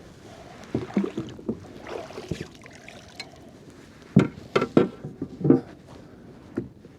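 Irregular knocks and thumps against a kayak as a caught spotted sea trout is handled and measured, about nine short strikes, the loudest cluster a little past the middle.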